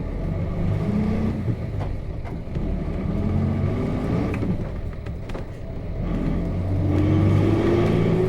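Nissan Diesel KC-RM211GSN bus's FE6 inline-six diesel engine pulling under load. Its pitch climbs, drops away about a second in and again around the middle as the driver shifts the five-speed manual, then climbs once more near the end.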